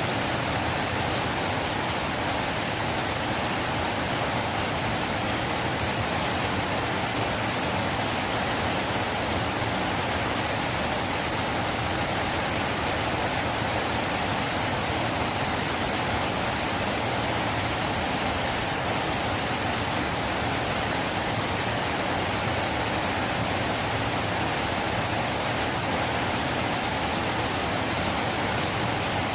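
River water flowing fast, a steady, even rush with no breaks or changes.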